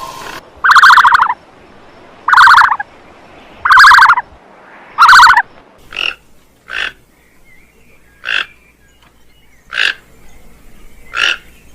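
An animal calling over and over: four loud, buzzy calls of about half a second each, roughly a second and a half apart, then five shorter, quieter calls.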